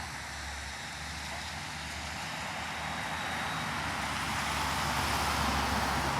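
Road traffic: a vehicle's tyre and engine noise slowly growing louder as it approaches.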